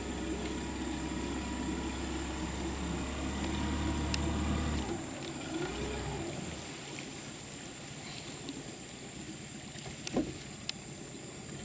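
Boat's outboard motor running steadily, then cut off about five seconds in, leaving a quieter background. A short sharp sound with a falling pitch near the end.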